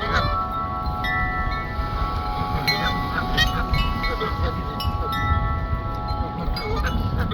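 Wind chimes ringing in gusty wind: several tones held together and struck again every second or so, over a low wind rumble on the microphone.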